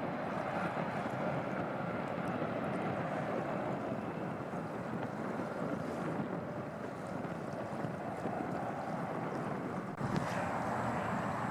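Steady rushing noise with wind buffeting the microphone, cutting abruptly to a slightly louder rush near the end.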